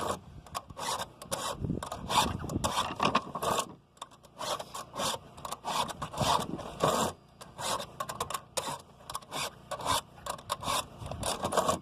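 A hand file rasping across the cutter teeth of a chainsaw chain in quick, repeated short strokes, with a brief pause about four seconds in, while the chain is being sharpened by hand.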